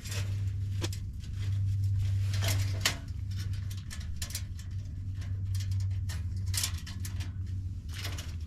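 Light metal knocks and clinks, scattered and irregular, from a small wood-burning tent stove and its flue pipe being handled and fitted together. A steady low hum runs underneath.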